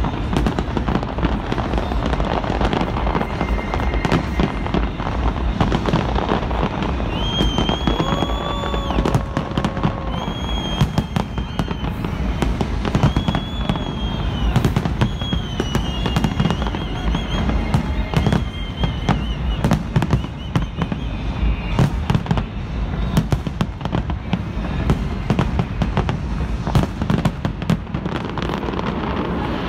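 Large fireworks display going off continuously: dense, rapid bangs of bursting shells over a constant crackle.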